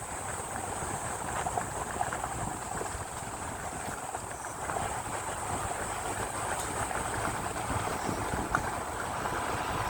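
Motorcycle ride on a hill road: a steady rush of wind and road noise with a low rumble, and a thin high whine.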